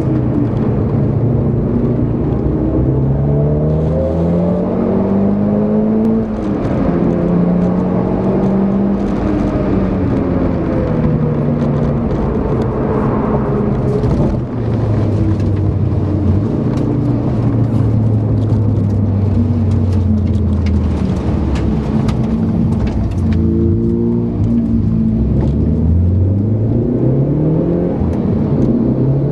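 Turbocharged four-cylinder engine of a Mitsubishi Lancer Evolution, heard from inside the cabin on a circuit lap: revs climb repeatedly through the gears, ease off for a corner, then climb again near the end, with road and tyre noise underneath.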